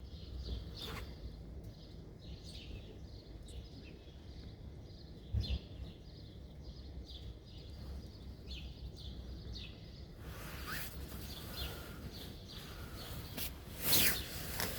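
Small birds chirping in short repeated calls over a steady low outdoor rumble, busier in the last few seconds. There is a low thump about five seconds in and a louder sharp noise near the end.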